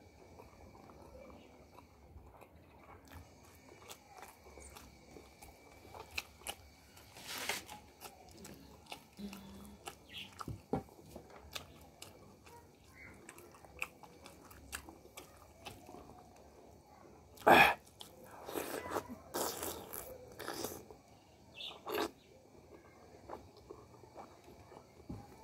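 Close-up eating sounds: chewing and mouth clicks on hand-fed mouthfuls of rice and boiled egg, with scattered short sharp smacks, the loudest about two-thirds of the way through.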